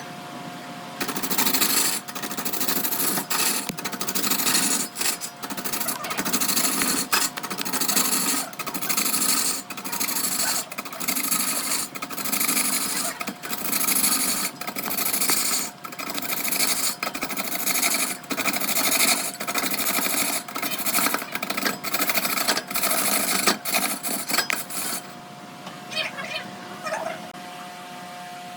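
A tool cuts and scrapes the spinning wood on a wood lathe in rough, repeated passes about once a second, over the lathe's steady hum. The cutting stops near the end, leaving only the hum.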